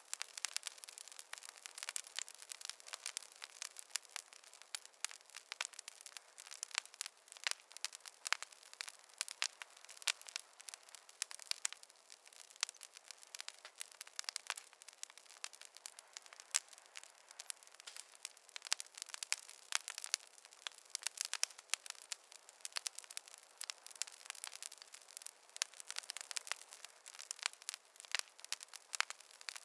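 Campfire crackling: a dense, irregular stream of small sharp pops and snaps over a faint hiss, with no low rumble.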